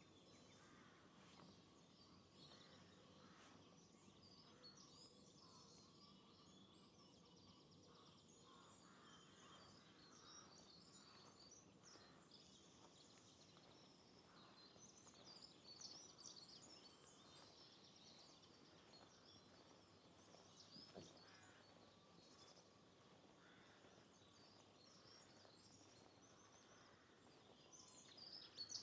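Faint birdsong: many short, high chirps and twitters from small birds, scattered throughout, over a quiet steady hiss.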